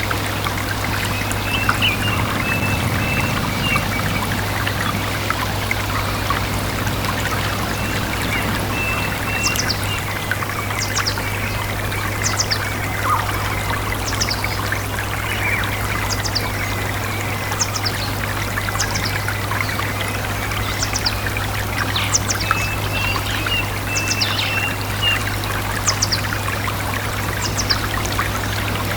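A stream trickling and splashing steadily, with birds calling over it: a short, high, falling note repeated about once a second from about a third of the way in, and bouts of twittering near the start and again later. A steady low hum runs underneath.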